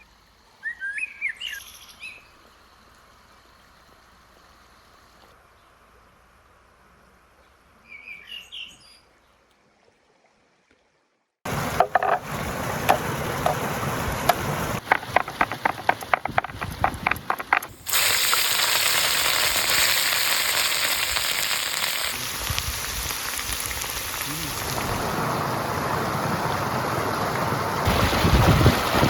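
Birds chirping a few times over a quiet background, then, after a cut about eleven seconds in, loud steady sizzling of food frying over a fire with many sharp crackles and pops, growing denser partway through.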